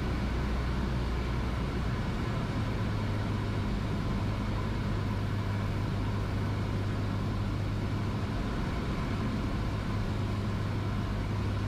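Cessna 172S Skyhawk's four-cylinder Lycoming engine and propeller droning steadily on a one-mile final approach. Its low note shifts about a second in.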